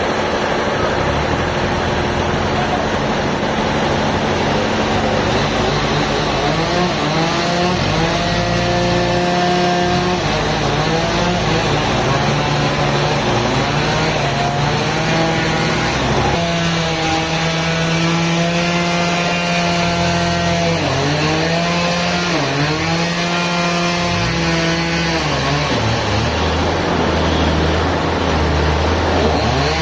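Engine-driven saw running and cutting wood. Its engine note holds steady, then drops sharply and recovers several times in the second half as it bogs under load in the cut.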